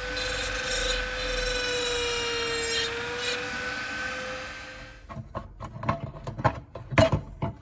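A power tool's motor runs with a steady whine, dipping slightly in pitch as it is loaded, then winds down. It is followed by a run of sharp, irregular clicks and knocks.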